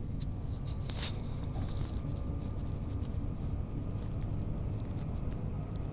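Steady low rumble of a Queensland Electric Tilt Train running at speed, with scattered faint clicks and one sharp knock about a second in.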